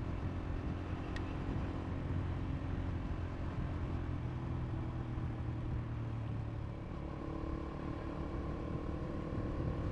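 Motorcycle engine under way, the single-cylinder of a 2022 KTM RC390, running at a steady note, with its pitch rising slowly over the last few seconds.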